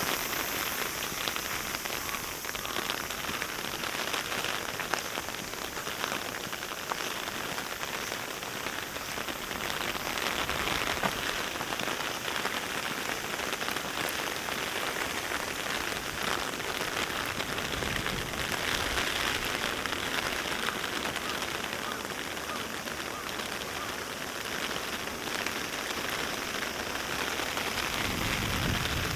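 Heavy rain falling steadily, a dense patter of drops, the aftermath of a typhoon. A low rumble comes in near the end.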